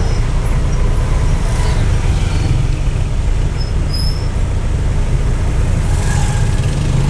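Car moving along a road, heard from inside: a steady low rumble of engine and road noise, with a few faint short high chirps.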